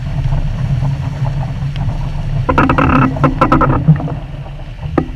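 Steady low rumble of wind and water on a small sailboat, heard through a GoPro, with a cluster of knocks and splashes a little past halfway and a single click near the end.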